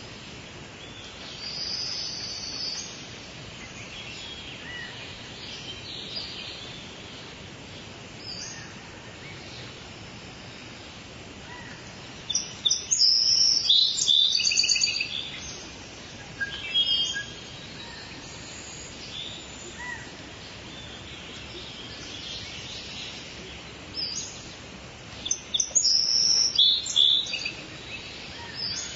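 Steady hiss of falling rain with birds chirping in loud bursts, about a second in, around the middle, and again near the end.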